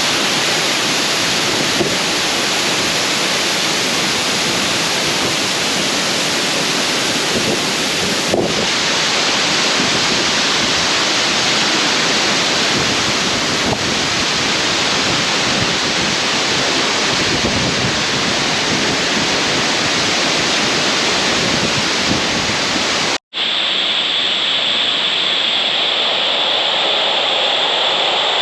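Oboadaka Falls' water pouring down, a loud, steady rush. About 23 seconds in it drops out for an instant and comes back thinner and hissier, with a bright high edge.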